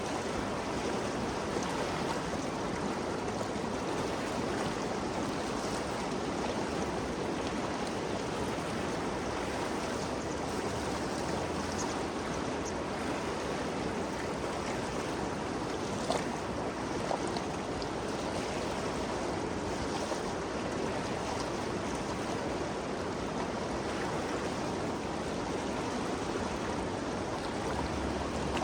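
The Ganges River flowing: a steady, even rushing of water, with a couple of brief ticks about halfway through.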